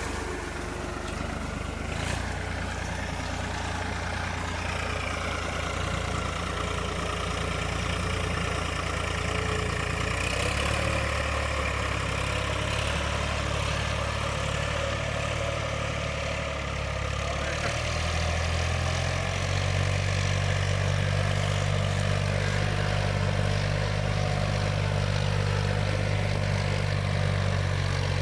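Escort 355 tractor's diesel engine running steadily with no one speaking over it; the note shifts about a third of the way in and grows a little louder and heavier about two-thirds of the way through.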